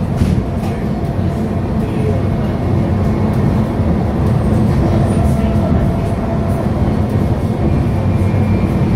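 Stadler FLIRT electric multiple unit (ETR 170) running at speed, heard from inside: a steady rumble of wheels on rail with a faint high whine and a few light clicks near the start.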